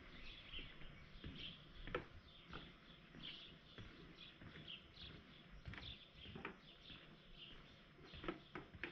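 Faint chirping of small birds, many short calls one after another, with scattered soft knocks now and then.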